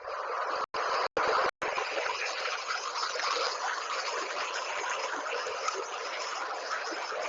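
Steady rush of flowing water, like a stream, cut by three brief dropouts in the first second and a half.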